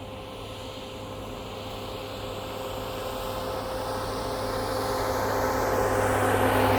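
An approaching train, its steady running sound growing steadily louder as it nears.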